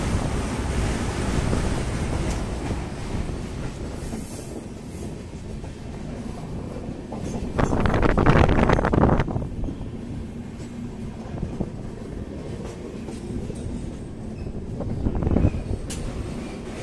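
Running noise of a train heard from on board: a steady rumble of wheels on the rails, with a louder stretch of about a second and a half some eight seconds in and a shorter swell near the end.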